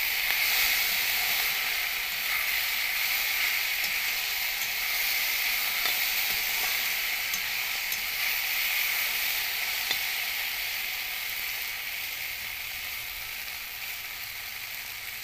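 Hog plum flowers and vegetables frying in a hot iron wok, a steady sizzle, stirred with a metal spatula that makes a few light scrapes. Mustard paste has just been added. The sizzle fades slightly toward the end.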